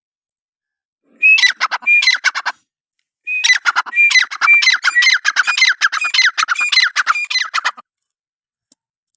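A francolin calling: rapid series of harsh repeated notes in two bursts, a short one about a second in and a longer one from about three seconds in.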